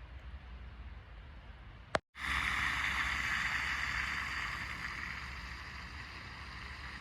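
A faint low hum, then a sharp click and a brief dropout about two seconds in, after which a louder steady rushing noise sets in and slowly eases.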